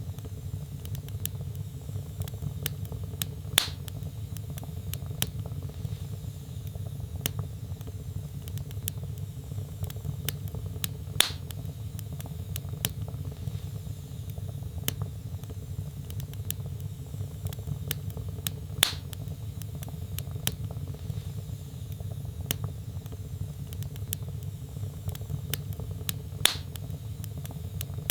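Wood fire burning in a fireplace: a steady low rumble of flames with frequent small crackles, and four louder pops spaced evenly through the stretch.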